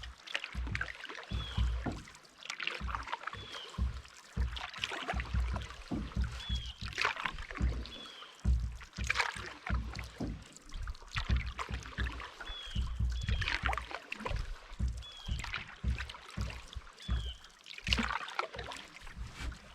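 Canoe paddle strokes: the blade dips and pulls through the water with a light splash about once every one to two seconds. Wind rumbles on the microphone throughout.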